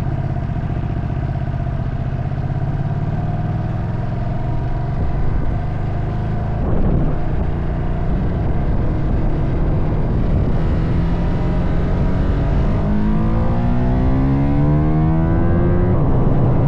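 Ducati Panigale V2 sportbike's V-twin engine under acceleration. The engine holds a steady pitch, then shifts gear about seven seconds in. Later the revs climb steadily and it upshifts again near the end.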